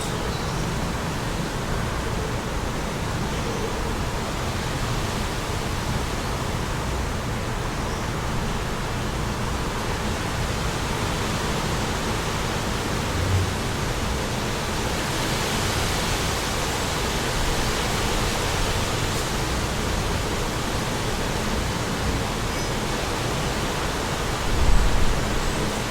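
Steady wind rushing, swelling into a stronger gust about halfway through, with two brief low thumps of wind on the microphone.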